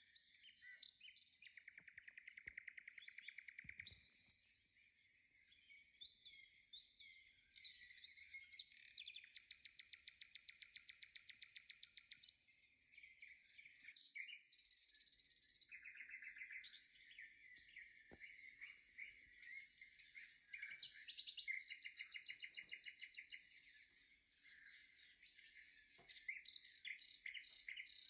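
Faint birdsong: small birds chirping and whistling, with several long, fast trills of rapidly repeated notes.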